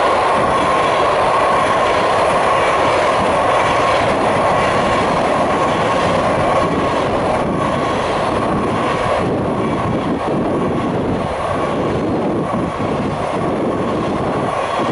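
Intermodal freight train of container flat wagons rolling past close by, a loud, steady rush of wheels on the rails that eases slightly in the second half.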